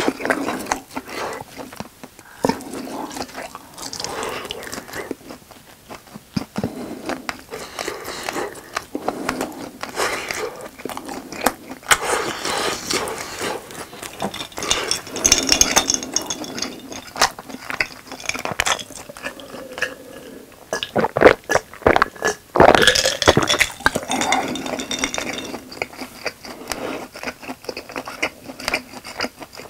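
Close-miked chewing and wet mouth sounds of someone eating grilled slabs of grilling cheese. Sharp clicks and taps come throughout, loudest about two thirds of the way through.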